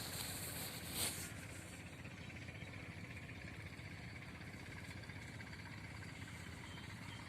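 Rural outdoor morning ambience: a steady background hiss with a few faint, short bird chirps, and a brief rustle or knock about a second in.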